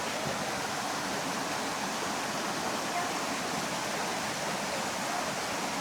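Steady rush of running water from a waterfall.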